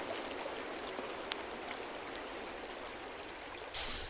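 Running water, a steady stream-like rush with scattered drip-like ticks, and a short, sharper burst of hiss near the end.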